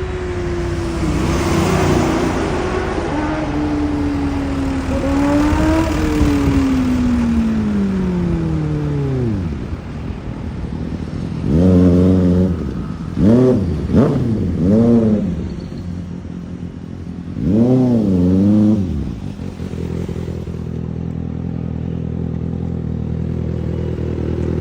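Kawasaki Ninja ZX-6R inline-four with a full-system exhaust: the engine's pitch sinks slowly over the first nine seconds from high revs to low, with small rises along the way. It is followed by a handful of quick throttle blips that each rise and fall, and then a steady idle.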